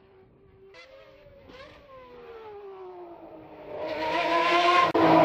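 Car engine sound, starting faint with its pitch easing slowly down, then getting much louder about four seconds in.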